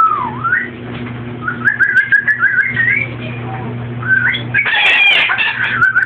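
Pet parrot making warbling, wavering whistles in three runs, the last one near the end the loudest, over a steady low hum.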